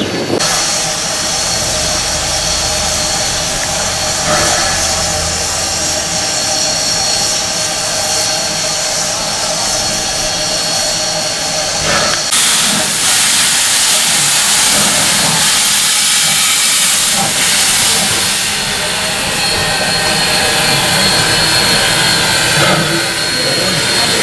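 Steam hissing from the steam locomotive Ww 644, a steady hiss that grows louder and harsher about halfway through.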